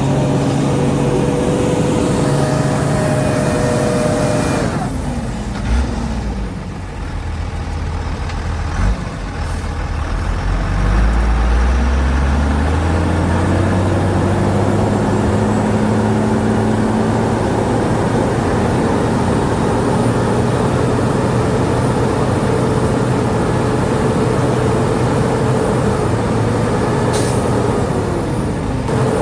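Heavy diesel engine running hard, then dropping in revs about five seconds in, with two short clunks while it runs low, before revving back up and holding steady.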